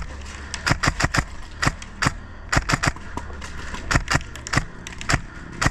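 Airsoft guns firing irregular single shots, some in quick pairs, over a steady low rumble.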